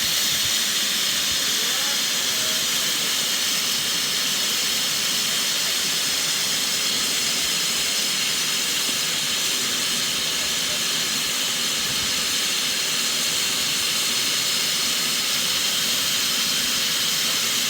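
Steam locomotive 60163 Tornado, a Peppercorn A1 Pacific, hissing steadily with escaping steam at an even level and no exhaust beats.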